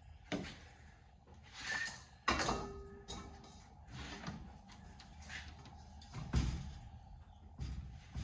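Irregular knocks, bumps and scrapes of things being moved and set down. The sharpest knock, about two seconds in, rings briefly, and a heavy thump follows a few seconds later.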